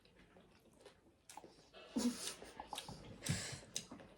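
Eating sounds close to the microphone: chewing and crunching of food, with short louder crackling bursts about two seconds in and again a second later.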